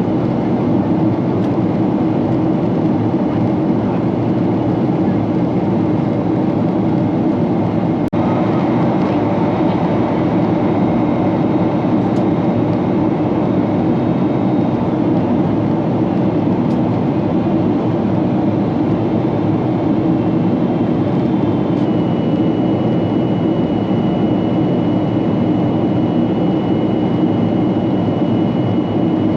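Steady engine and airflow rumble inside the cabin of a Boeing 777-300 on the ground after landing. A faint high steady whine comes in about three quarters of the way through.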